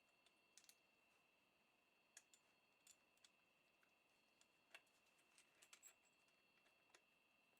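Near silence: faint scattered clicks over a faint steady high-pitched tone.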